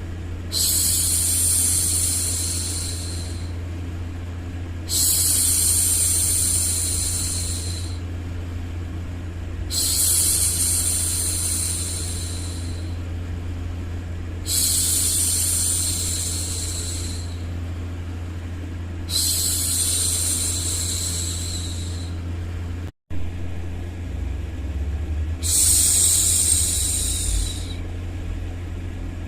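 A woman's voice hushing 'shhh' in long repeated shushes, each about three seconds long and coming about every four and a half seconds, over a steady low background noise. The sound drops out for a split second about 23 seconds in.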